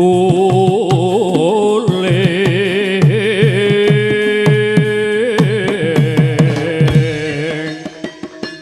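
Javanese gamelan music: a singer holds long, wavering notes over ringing metallophones and repeated low kendang drum strokes.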